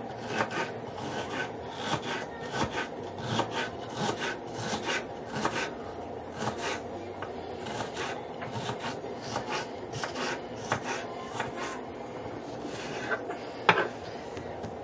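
Kitchen knife cutting a stalk of celery on a cutting board: irregular short strokes of the blade, about two or three a second, with one sharper stroke near the end.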